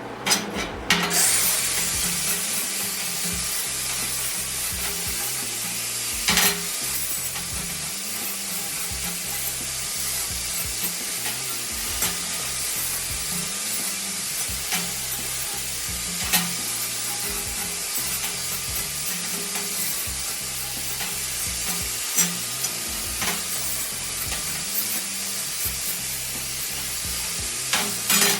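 MIG welder running a steady arc on thin 16-gauge steel, with .030 wire and 92% argon / 8% CO2 shielding gas: a continuous crackling sizzle that starts about a second in, with a few sharp clicks along the way.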